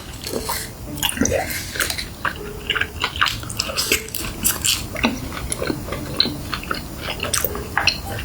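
A person biting and chewing food, with many irregular sharp crackling clicks.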